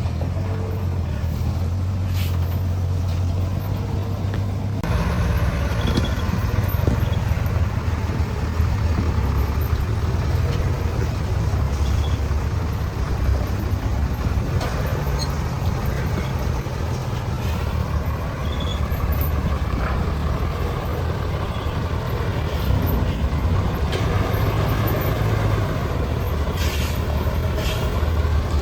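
Heavy diesel engine running steadily under load, its sound growing fuller and busier about five seconds in.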